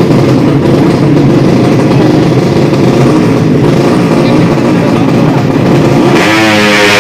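Drag-racing motorcycle engines running loud and revving at the start line. About six seconds in, a bike launches and its engine climbs steeply in pitch at full throttle.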